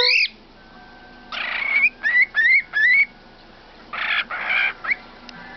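Pet birds whistling and squawking: a rising whistle cut off at the start, a harsh squawk, then three quick rising whistled chirps, and another harsh squawk near the end.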